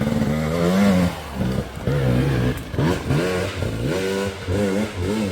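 Dirt bike engine revving in short repeated throttle bursts on a steep climb, its pitch rising and falling over and over as the rider works the throttle.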